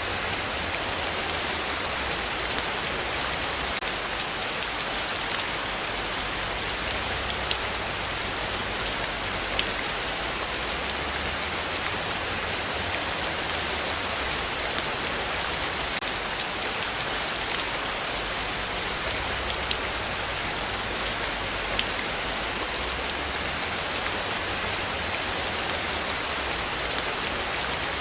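Heavy rain falling steadily: a dense, even hiss, with scattered individual drops ticking through it.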